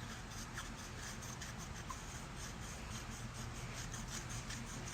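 Volcanic stone face roller rolling back and forth over the skin: faint, quick scratchy strokes, about four a second.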